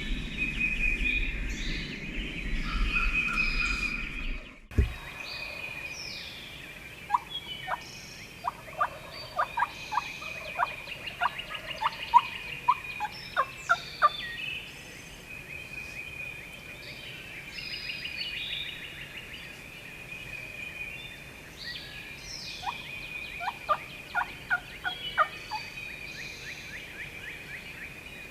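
Wild turkey calls: a long run of sharp, loud notes about a quarter of the way in and a shorter run near the end, over a steady high-pitched background tone. The background changes abruptly a few seconds in.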